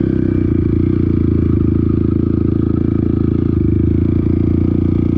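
Dirt bike engine running steadily while riding, with a low, even drone and no big revs.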